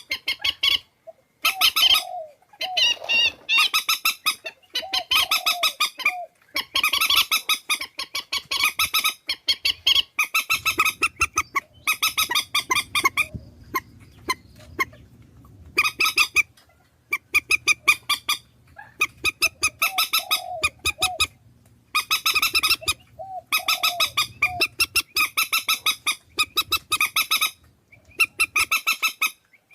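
Purple swamphens calling: repeated bursts of rapid, nasal, honking cackles, each lasting a second or two with short pauses between, from a compiled lure recording.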